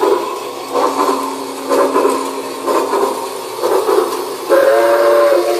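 Toy Christmas train running on its track, its sound effect playing a rhythmic steam-locomotive chugging, about one chuff a second, over a steady low hum. About four and a half seconds in, a steady steam-whistle toot starts.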